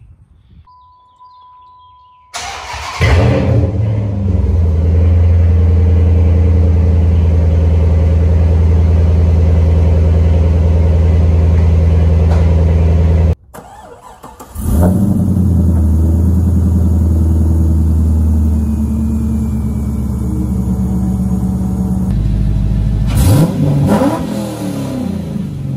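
Dodge Charger engine starting after a short beep, catching loudly and running at a steady high idle through its exhaust. After an abrupt cut, an engine starts again, idles, and is revved a couple of times near the end.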